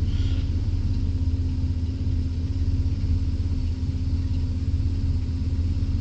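A car engine idling steadily, heard as an even low rumble with a constant hum.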